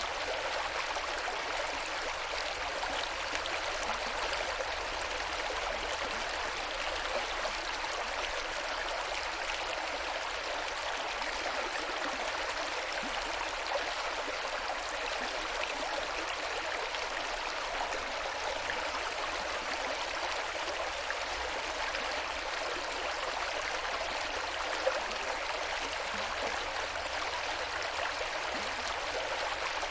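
Water of the West Branch Saranac River flowing, a steady, even rushing.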